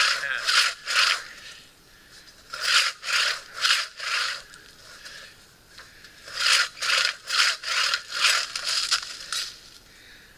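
Hand saw cutting firewood: three runs of quick back-and-forth strokes, about two to three a second, with short pauses between them.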